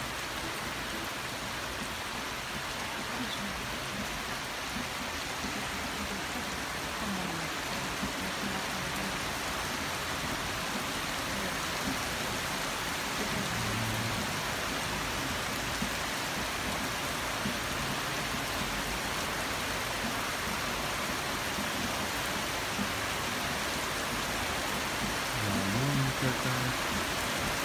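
Heavy rain falling in a steady downpour, an even hiss that grows slightly louder over the stretch.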